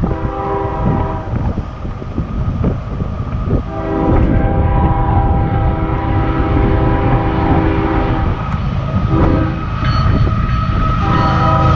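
Diesel locomotive air horn on a CSX freight train sounding several long blasts with short breaks between them, over the low rumble of the passing train.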